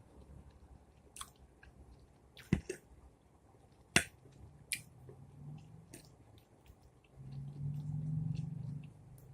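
A person chewing a mouthful of collard greens and baked chicken close to the microphone, with a few sharp wet mouth clicks. Near the end comes a low closed-mouth hum lasting about a second and a half.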